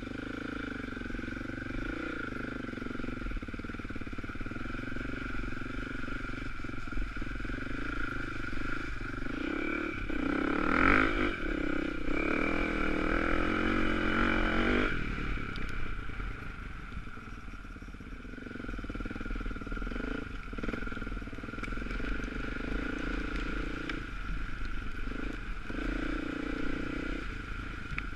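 Off-road dirt bike engine running while being ridden. About ten seconds in, the revs climb and the engine gets louder for some five seconds, then drops back to a steadier note.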